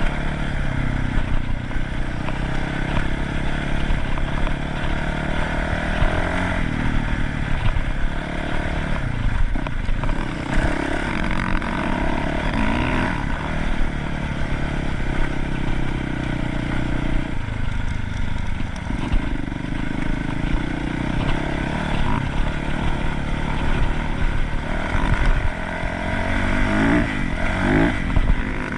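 Dirt bike engine running under way, its pitch rising and falling as the throttle is opened and closed.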